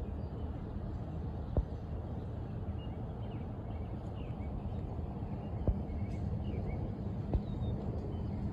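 Outdoor ambience: a steady low rumble with faint short bird chirps and three sharp clicks spread across it.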